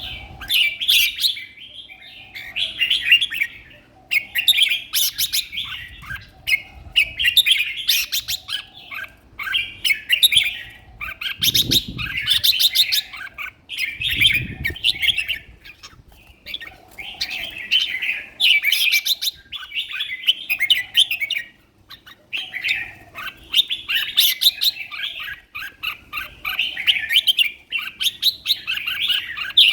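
Caged red-whiskered bulbul singing its short, loud phrases over and over, about one every two seconds. The bird is fresh and in top condition, singing hard. Two dull low thumps come about halfway through.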